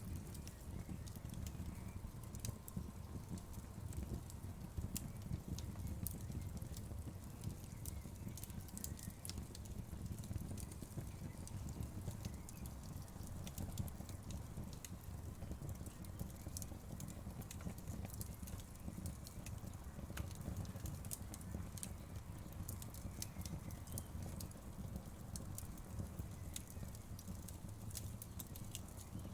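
Wood fire crackling: a steady low rumble of burning with frequent small, sharp pops and snaps.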